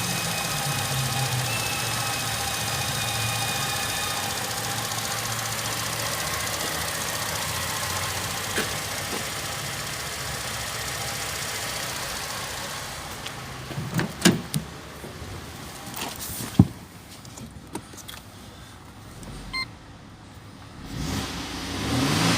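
Used Holden Commodore 3.6-litre V6 with about 158,700 km, idling steadily, then shutting off about thirteen seconds in. A few sharp clicks and knocks follow, and a low hum swells near the end.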